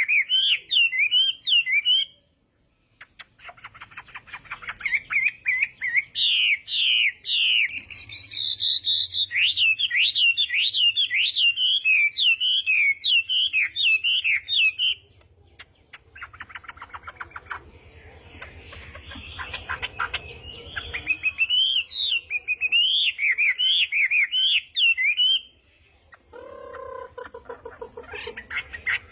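Chinese hwamei singing loud, rapid, varied phrases of swooping whistled notes in bursts separated by short pauses, with a fast rattling stretch in the middle and lower notes near the end.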